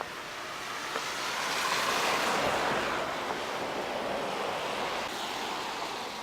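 Rushing hiss of a vehicle's tyres on a slushy road as it passes, swelling for about two seconds and then slowly fading.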